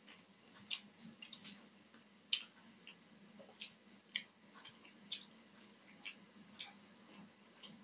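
Close-up eating sounds of a person chewing mouthfuls of rice and curry: irregular wet smacks and clicks of the lips and mouth, a dozen or so, one every half second or so.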